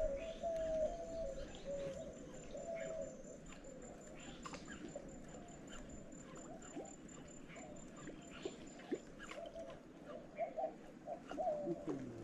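Birds calling: a quiet, steady run of short low notes that step up and down and repeat over and over, with faint scattered clicks.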